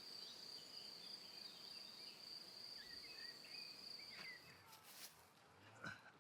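Faint outdoor evening ambience: a cricket's steady, unbroken high trill that stops about four and a half seconds in, with a few faint bird chirps.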